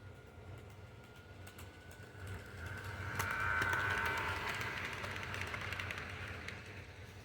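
Toy train running on its track: a motor whine with fast clicking from the wheels, growing louder as it passes close about three seconds in, then fading away, over a steady low hum.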